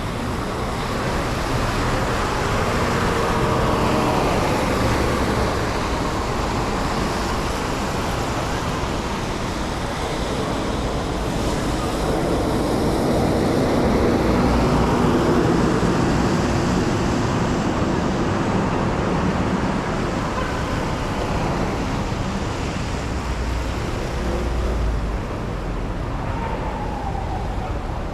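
Steady city vehicle noise, swelling and easing gently as vehicles pass.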